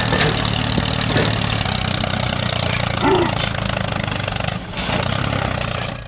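Tractor engine running steadily at idle with a low, even hum.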